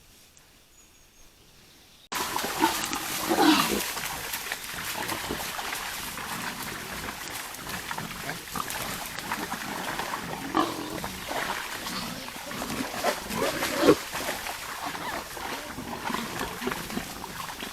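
Near silence, then after about two seconds wild boars grunting and calling at irregular intervals over a steady hiss, with the loudest calls a second or so after the start of the sound and again near the end.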